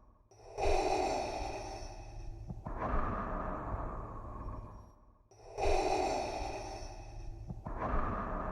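Darth Vader's respirator breathing sound effect, a mechanical, regulator-like in-and-out breath. Two full breath cycles of about five seconds each, each a sharp hissing draw followed by a softer breath out.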